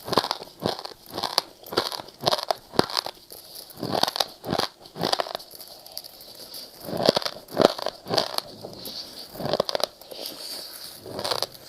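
Ice being bitten and chewed close to the microphone: a run of sharp, irregular crunches, a few a second, with short pauses between mouthfuls.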